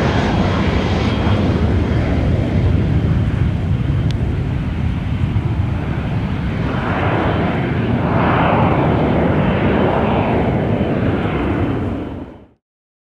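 Cessna 560XL Citation Excel's twin Pratt & Whitney PW545 turbofans on take-off: steady jet noise with a faint high whine that fades in the first seconds. It cuts off abruptly about twelve and a half seconds in.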